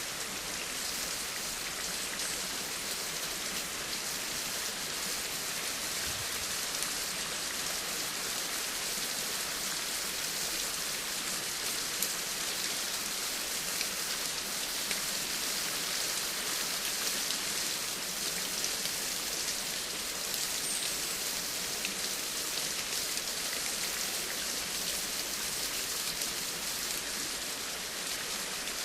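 Steady rain falling on a surface: a constant dense hiss of many fine drops, with a few slightly louder single drop ticks here and there.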